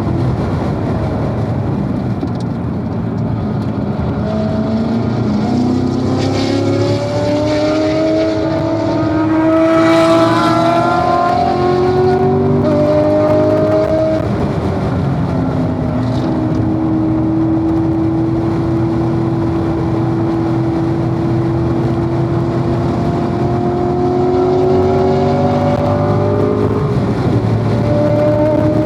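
Corvette V8 engine under hard acceleration on a race track. Its pitch climbs for the first ten seconds or so, drops around the middle as the driver lifts, holds fairly steady, then climbs again near the end.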